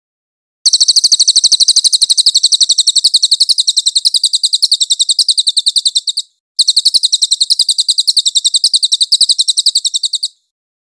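Cililin bird giving a loud, very fast, high-pitched rattling trill in two long bouts, with a brief break about six seconds in. It is used as a master song for training songbirds such as the magpie-robin.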